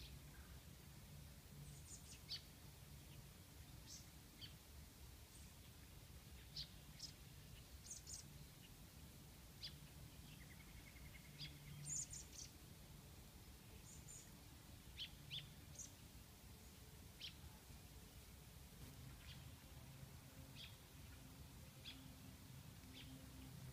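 Faint, scattered short high chirps of small birds, over a steady low hum.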